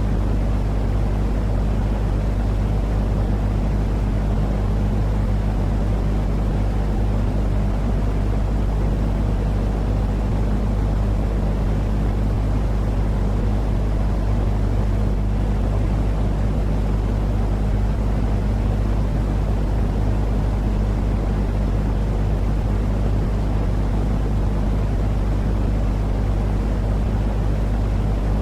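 Steady, unchanging low-pitched noise with a constant hum underneath, sold as 'white noise' for putting a baby to sleep. It sounds like an engine or cabin drone and never varies.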